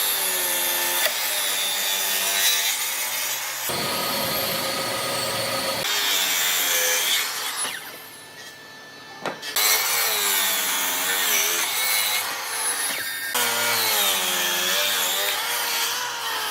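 Woodworking tools cutting and shaping wood, with a pitched hum that sags and rises as the tool works. The sound changes abruptly several times, as short clips of different work follow one another.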